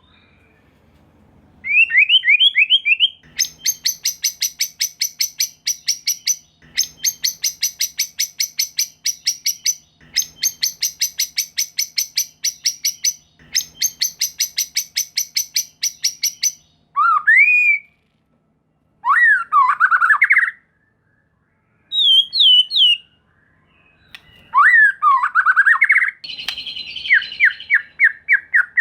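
White-rumped shama (murai batu) singing: a short rising run of notes, then four long bursts of very rapid repeated notes, each about three seconds, with brief gaps between. Separate sweeping whistles follow, and a fast chattering series begins near the end.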